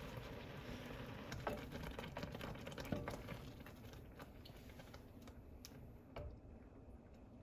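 Kitchen sounds: scattered light clicks and taps over a soft hiss, growing quieter after about four seconds.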